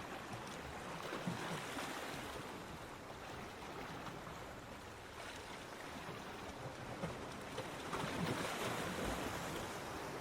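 Ocean waves breaking and washing up on a beach, a steady hiss of surf that swells as a wave comes in about eight seconds in.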